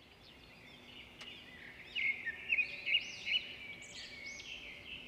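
Birds chirping, many quick repeated chirps that fade in and grow louder from about two seconds in.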